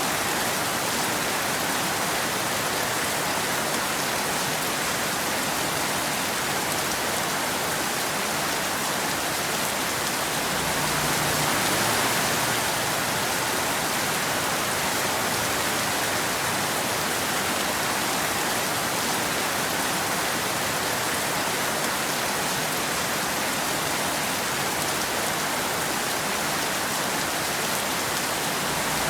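Steady rain falling, an even hiss of many drops with a slight swell in loudness about a third of the way through.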